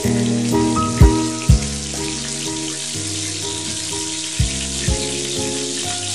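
Kaymati batter sizzling and bubbling as it deep-fries in a pot of hot oil. Background music with a steady beat plays over it.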